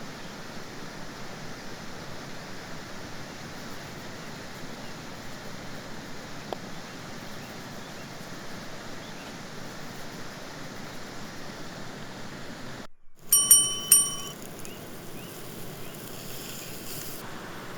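Two short, bright metallic clinks that ring briefly, about half a second apart, over a steady rushing outdoor background.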